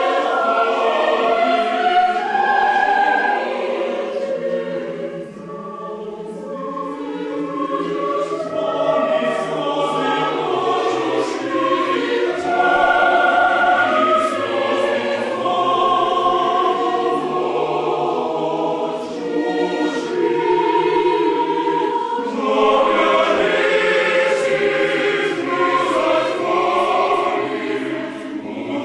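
Choir singing sustained, slow-moving music, with the sound thinning and softening about five seconds in before swelling back to full voice.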